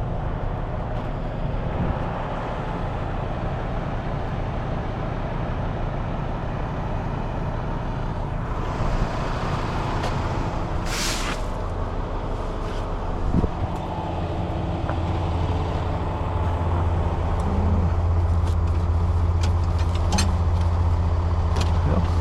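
Heavy truck's diesel engine idling steadily, with a hiss of released air building to a sharp burst about ten seconds in. The engine note grows louder in the last several seconds, and a few light clicks come near the end.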